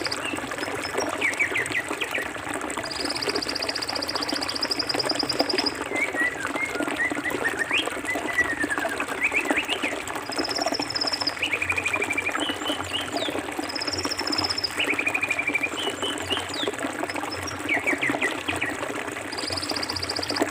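A forest river flowing steadily with a continuous rushing sound. Birds chirp over it, and a high, fast trill lasting a second or two comes and goes several times.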